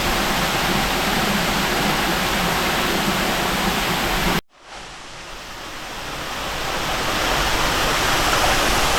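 Small waterfall pouring into a pool, a steady loud rush of water. About halfway through it cuts out abruptly, then comes back softer and gradually swells to full strength.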